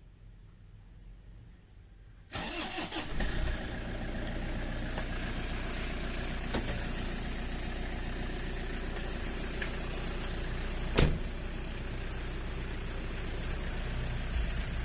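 Toyota Hiace Commuter van's engine cranked and catching about two seconds in, after about a second of cranking, then idling steadily. A single sharp click comes late on.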